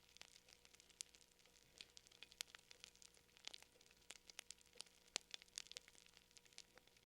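Fire crackling quietly, with irregular sharp pops and snaps several times a second.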